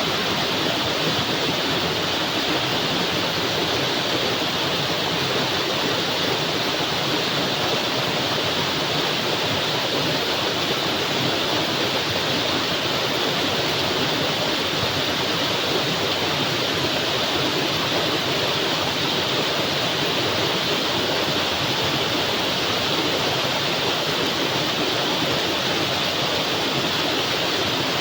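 Heavy rain falling steadily: a dense, even hiss that stays at the same level throughout.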